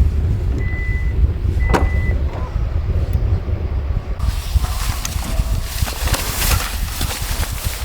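Strong wind buffeting the microphone with a steady low rumble. Two short high beeps sound about a second in, and a loud rushing hiss joins from about four seconds in.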